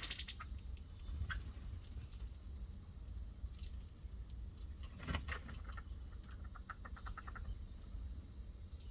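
Backyard nature ambience: a steady high-pitched insect drone, with a few short bird chirps, a sharp click about five seconds in and a quick rapid rattle of notes around six to seven seconds in, over a low rumble.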